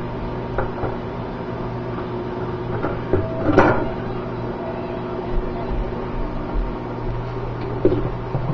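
Microwave oven running with a steady hum while it heats ice in a cup, with one sharp knock a little under halfway through.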